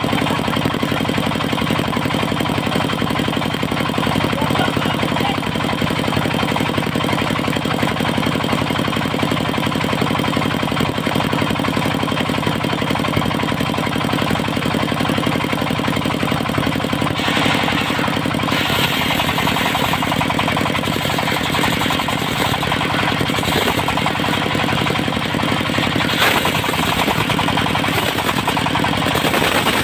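Diesel engine of a circular-saw mill running steadily with a fast, even chugging. About seventeen seconds in, a harsher hiss joins it, as the saw blade starts cutting the mahogany log.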